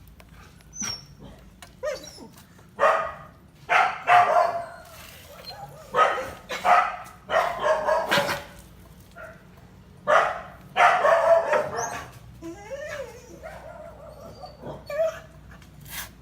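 A dog barking repeatedly in short bouts, some calls drawn out.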